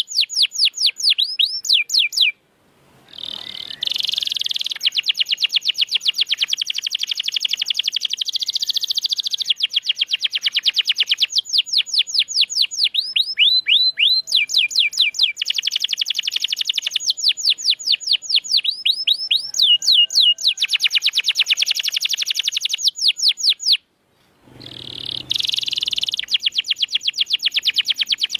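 Domestic canary singing a long, loud song of fast trills and rapidly repeated down-sweeping notes, with two short pauses.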